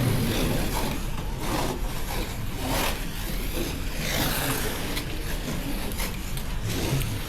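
Slot cars running laps on the track: a steady rasping whir from their small electric motors.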